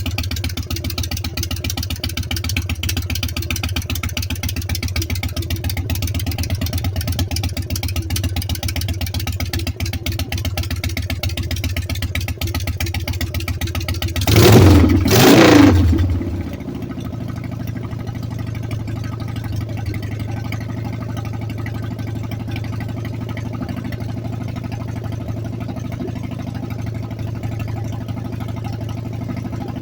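Freshly rebuilt engine running steadily on its second startup, with two short loud surges about halfway through, then running on slightly quieter and duller.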